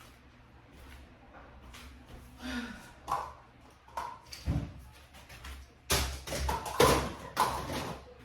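A run of knocks and clattering, as of hard objects being handled and set down, loudest in a burst of several sharp knocks over the last two seconds.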